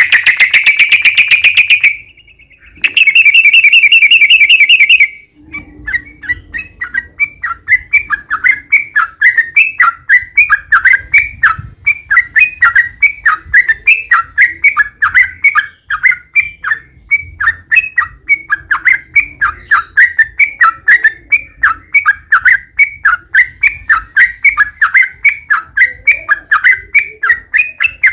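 Yellow-vented bulbul (trucukan) song: two loud rapid trills in the first five seconds, then a long unbroken run of quick, falling chirps, about three or four a second.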